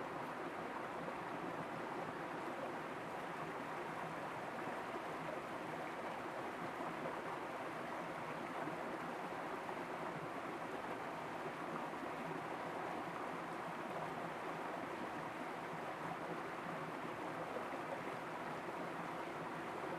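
Steady rushing of running water, even throughout, with no pops or crackles.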